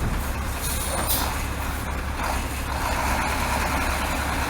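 Truck running, a steady engine hum with road noise.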